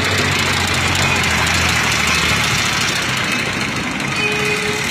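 Street traffic with vehicle engines idling close by: a steady low engine hum that eases off about two seconds in, over constant road noise.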